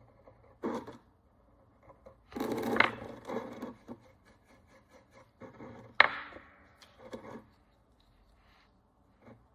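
Handling and rubbing noises at a workbench: a few short scraping, rubbing bursts, with a sharp tap about six seconds in.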